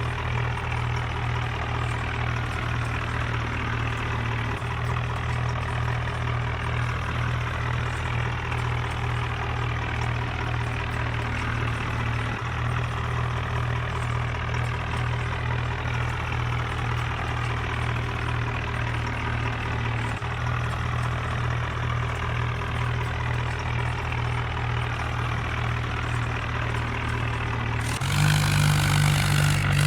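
Swaraj 4x4 tractor's diesel engine running at a steady idle. Near the end, the engine note suddenly rises in pitch and gets louder as the throttle opens.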